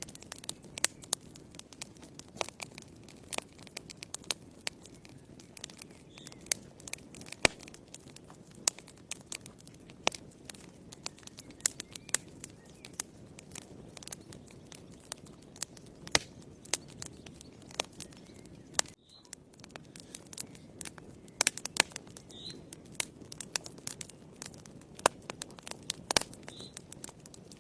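Wood fire burning in a fireplace: irregular sharp crackles and pops over a low, steady rush of flame.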